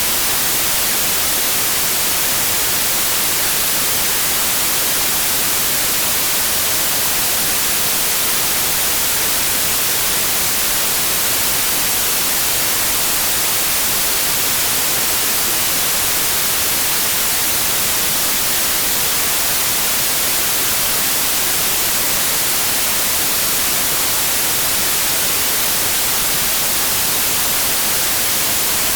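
Steady white noise: an even, unchanging hiss like radio static, strongest in the high frequencies.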